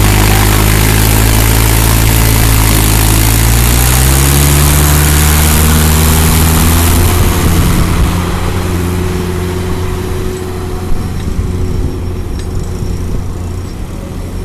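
Tractor diesel engine running hard, its pitch rising about four seconds in, then settling to a quieter steady run about halfway through, with a brief sharp knock a few seconds later.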